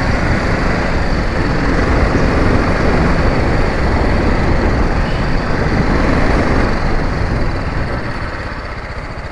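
Motorcycle engine running on the move, mixed with heavy wind rush on the rider's camera mic, easing off about eight seconds in.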